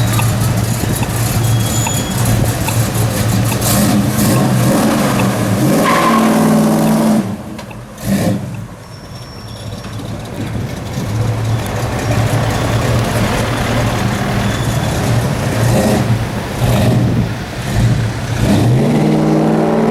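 Chevrolet Nova's engine idling, revved up and let fall back: a rising sweep about six seconds in, a quieter stretch after it, shorter blips around sixteen seconds, and another rising rev near the end.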